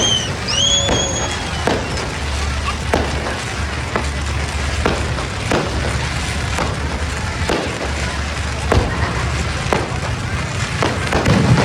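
Fireworks going off: a string of bangs at irregular intervals, about one every half-second to second, over a steady low rumble, with a short whistle about a second in.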